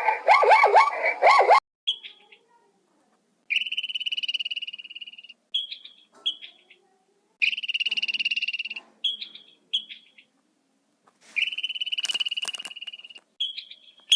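A frog calling: long, even trills about two seconds each, three times, with short high chirps between them. Before that, for about the first second and a half, a different animal gives quick, repeated calls that fall in pitch.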